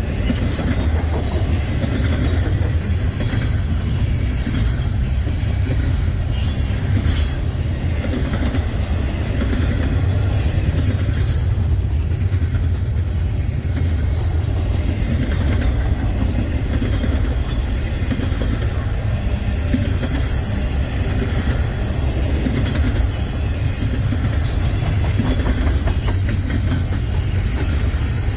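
Freight cars rolling past close by: a steady heavy rumble of steel wheels on rail, with the clicking and clatter of wheels over rail joints and some high wheel squeal.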